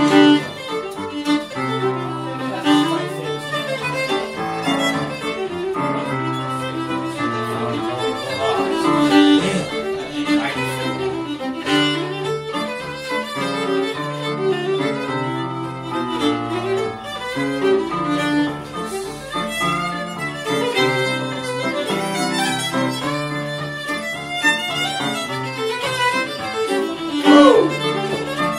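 Irish traditional session music: a fiddle playing a tune over low held accompanying notes.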